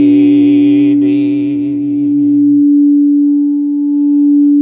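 A low voice holds the last sung syllable of a slow meditation chant with a wavering vibrato for about two and a half seconds, then fades. A steady, pure drone tone runs underneath throughout.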